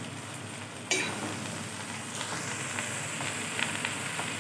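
Freshly added amaranth (thotakura) leaves sizzling in hot oil in a pot as they are stirred and pressed down. The sizzle turns suddenly louder about a second in, with a few light clicks.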